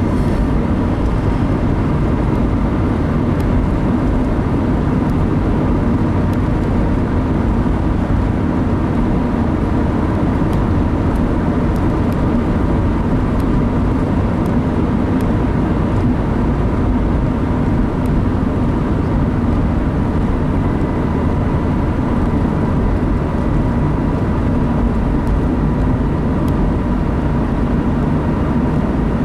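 Steady road noise inside a car driving at highway speed: engine and tyres running evenly, with a faint steady high tone.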